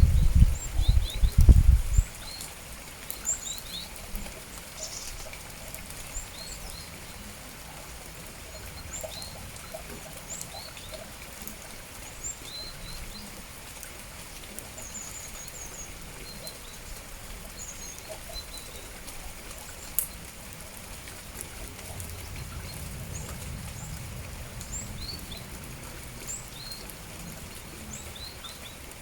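Small songbirds giving many short, high chirps scattered throughout, over a steady hiss of light rain. A loud low rumble fills the first two seconds.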